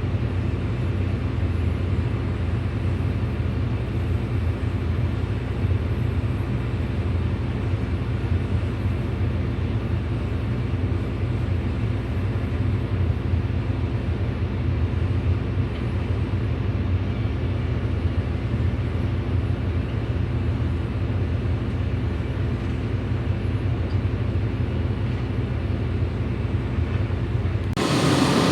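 Hydraulic excavator's diesel engine running steadily with an even low drone. About a second before the end the sound switches abruptly to a louder, brighter noise.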